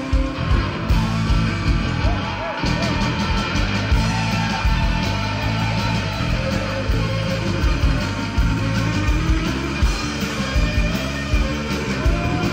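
Live rock band playing: electric guitar with bending, sliding notes over bass and drums with a steady beat.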